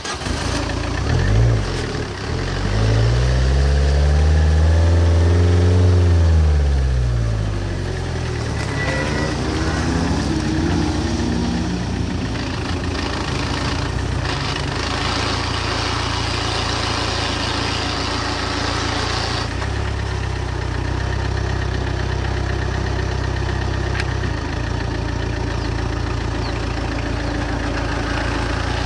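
Car engine revved once, the pitch rising and falling over about four seconds, then running steadily at low revs as the car rolls slowly.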